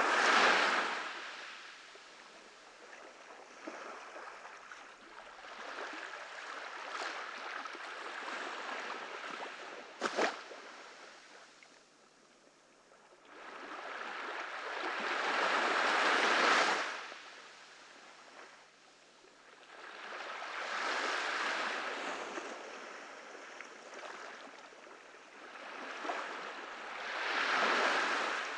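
Small ocean waves breaking on a beach and washing back, the surf swelling and fading in slow surges every several seconds. There is a single sharp click about ten seconds in.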